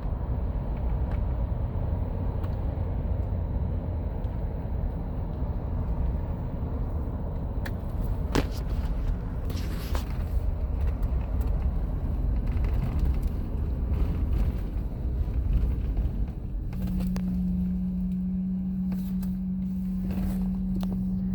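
Car cabin noise while driving: a steady low road and engine rumble with a couple of small knocks. About seventeen seconds in the rumble drops away and a single steady low hum carries on.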